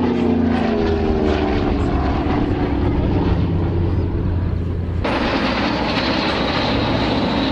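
Propeller aircraft passing by, its engine note falling in pitch as it goes. About five seconds in, the sound cuts abruptly to a different, noisier aircraft sound with a high steady whine.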